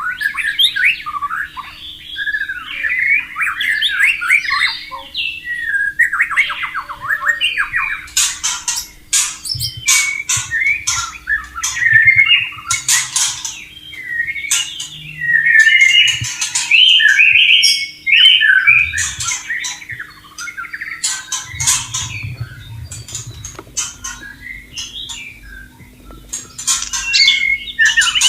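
White-rumped shama singing continuously: fast, ever-changing phrases of whistled notes mixed with sharp clicking and chattering notes, broken by brief pauses.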